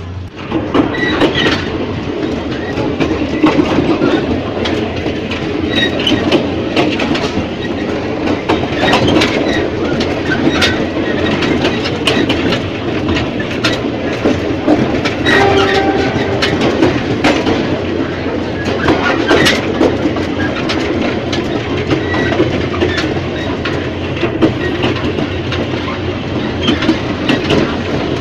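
Ex-JR 203 series electric multiple unit running on rail, with a steady rumble and repeated clacks of the wheels over the track.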